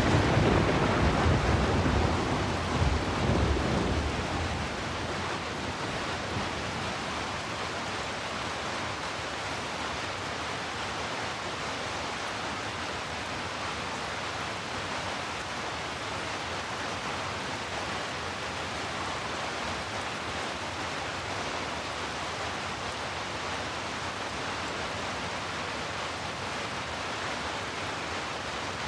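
Heavy rain falling steadily as a dense even hiss. A low rumble of thunder over the first few seconds fades out.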